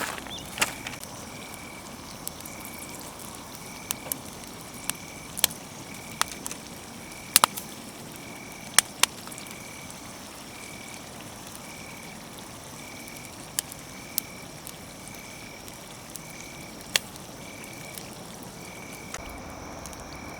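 Wood campfire crackling with about a dozen scattered sharp pops. Behind it runs a steady outdoor chorus: a high call pulsing about twice a second over a thin, higher steady drone.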